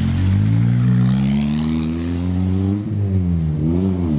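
Sports car engine accelerating as the car pulls away, its pitch rising steadily for almost three seconds. It dips sharply, climbs again, and drops back near the end.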